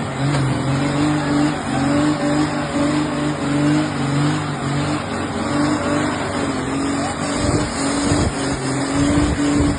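Truck engine held at high revs during a burnout, its note steady in pitch but pulsing about twice a second, over the hiss of spinning tyres. Deep rumbling surges come in near the end.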